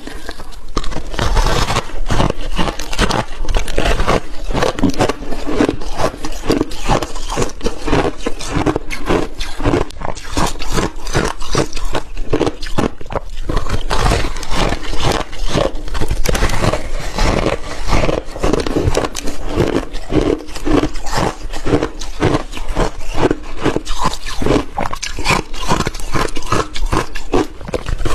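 Close-miked crunching and chewing of frozen milky shaved ice, bitten off a donut-shaped block, one crisp crunch after another with no break.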